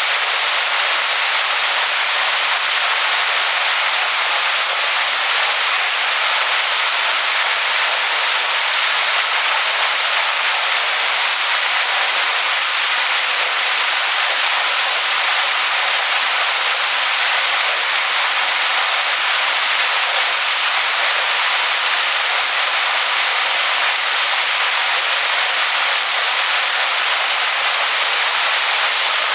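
Waterfall splashing onto rocks: a loud, steady rush of falling water, a bright hiss with little low rumble.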